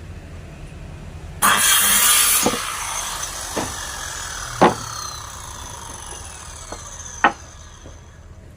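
A woodworking power tool runs loudly for about a second, then its pitch slowly falls away as it winds down. Several sharp wooden knocks follow, over a steady low hum.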